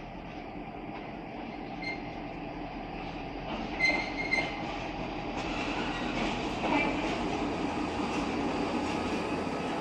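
Renfe train rolling along the track, a steady rumble of wheels on rail that slowly grows louder, with brief faint high-pitched wheel squeals about two and four seconds in.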